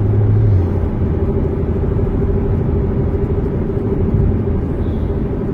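Corvette C7 Z06's supercharged V8 droning steadily at cruising speed, with road noise; the engine note drops slightly about half a second in.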